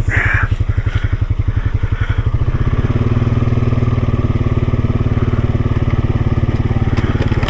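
Off-road vehicle's engine running at low speed with a steady pulsing beat while driving on a rough trail, settling into a smoother, more even note from about two and a half seconds in.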